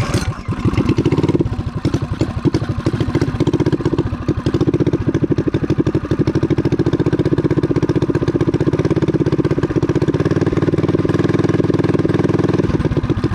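Mini bike's small single-cylinder four-stroke engine, a 196cc clone fitted with a Wildcat WC22 carburetor, starting up and then running steadily as it warms up.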